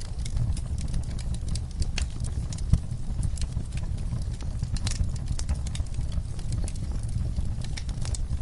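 Campfire burning, with irregular sharp crackles and pops from the wood over a steady low rumble, and one heavier pop about two and a half seconds in.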